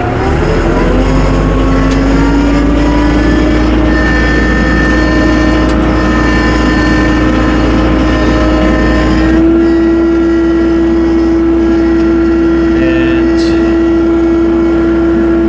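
Tractor running under throttle with a steady whine, its pitch rising just after the start and stepping up again about nine and a half seconds in.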